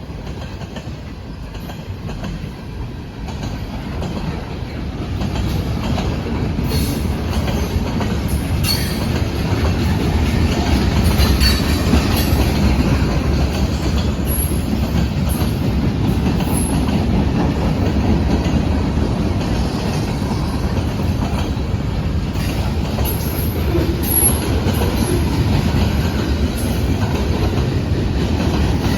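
Freight cars of a long manifest train rolling past, a steady loud rumble and clatter of steel wheels on rail, with a few brief high wheel squeals.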